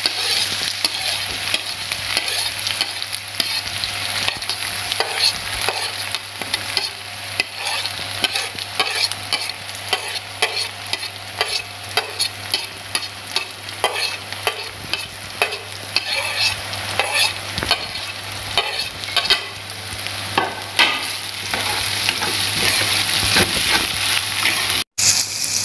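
Chopped onions, green chillies and garlic sizzling as they fry in hot oil in a kadai, with frequent clicks and scrapes of utensils against the pan as they are scraped in and stirred. A faint steady low hum runs underneath, and the sound cuts out for an instant near the end.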